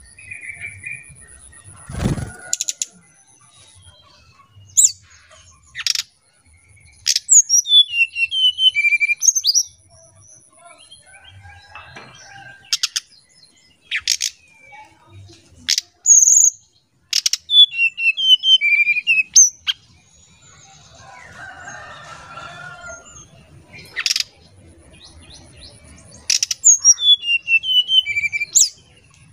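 Brown-chested jungle flycatcher singing a descending series of clear whistled notes, a phrase it repeats three times, with short sharp notes in between. A thin steady high tone runs underneath for much of the time, and there is a single low thump about two seconds in.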